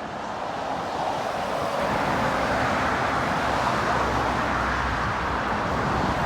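Road traffic going by: tyre and engine noise builds about a second in and stays up, with a low rumble under it.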